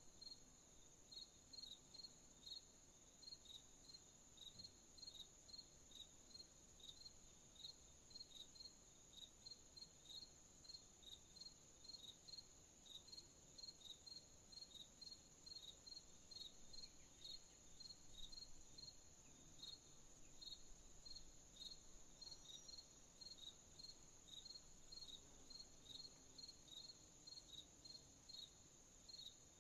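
Faint crickets chirping: a steady high trill underneath, with one cricket's short chirps repeating about twice a second.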